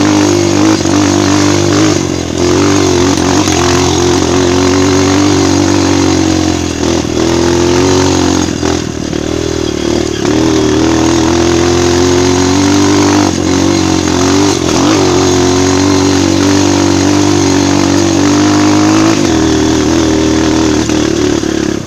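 Single-cylinder four-stroke trail motorcycle riding a dirt trail, the engine's revs rising and falling constantly, with a few sharp knocks.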